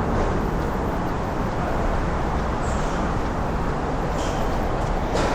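Steady city traffic rumble, with a brief high-pitched squeak about two and a half seconds in.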